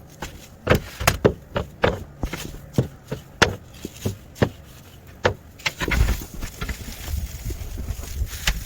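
Footsteps crunching through deep snow, an irregular run of sharp steps. About six seconds in, a low rumbling noise rises under the steps.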